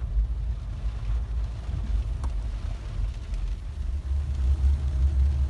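Steady low rumble of a car driving, heard from inside the cabin, with a few faint clicks and knocks.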